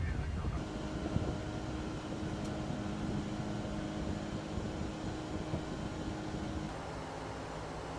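Steady drone of jet aircraft engines, a constant hum with a few steady tones; the tone changes abruptly about half a second in and again near the end.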